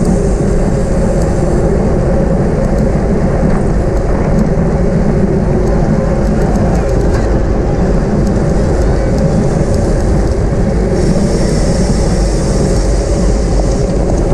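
Steady rush of wind and road noise from a racing bicycle at speed, wind buffeting the camera microphone. A brighter hiss joins for a couple of seconds near the end.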